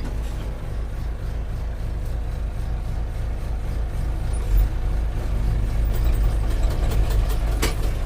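An engine running steadily at idle with a low rumble, with one sharp click near the end.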